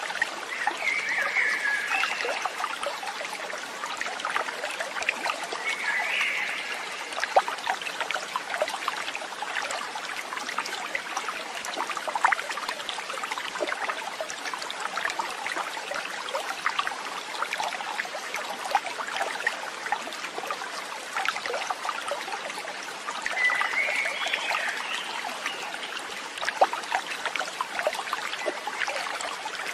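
Running water trickling and splashing steadily, as from a small stream, with three brief high calls over it, about a second in, about six seconds in and near the end.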